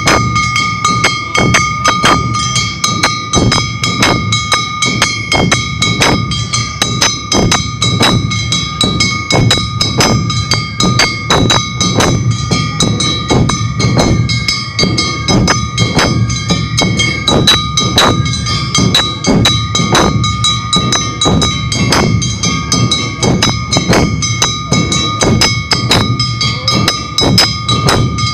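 Awa Odori festival band music (narimono): drums and other percussion struck in a fast, even beat, with steady high ringing tones held over them.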